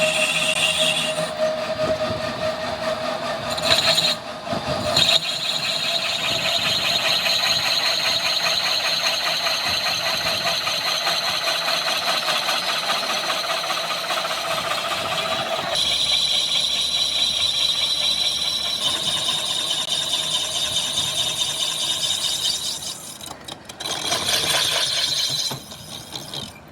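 Metalworking machinery running in a workshop: a steady whine with a grinding, cutting texture. It breaks off briefly around four to five seconds in, changes pitch a little past the middle, and drops away near the end.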